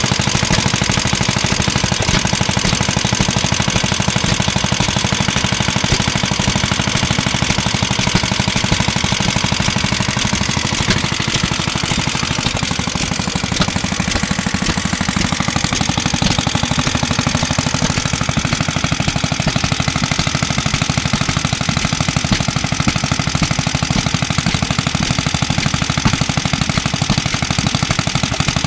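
Clinton Model A-800 2.5 hp air-cooled engine running steadily with a rapid, even run of firing beats while it drives a small air compressor.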